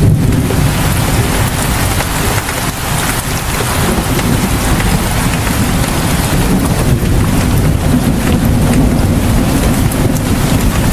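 Rain pouring down steadily as a dense hiss, with a deep rumble underneath.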